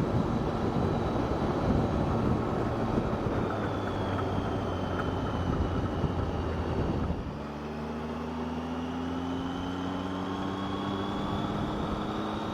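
Motorcycle riding along, wind rush and engine noise together. About seven seconds in, the wind noise drops away and a steady engine note comes through, rising slowly in pitch.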